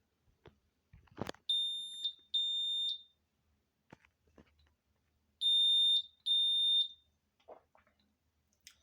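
AEG washing machine sounding its E20 fault alarm: two pairs of high, steady beeps about four seconds apart. The alarm signals a drain fault, here a clogged drain pump filter. A click comes just before the first beep.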